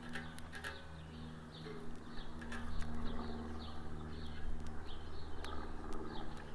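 A small bird chirping over and over in short, falling notes, with scattered sharp snaps and crackles from twigs being handled over a small wood fire, and a steady low hum underneath.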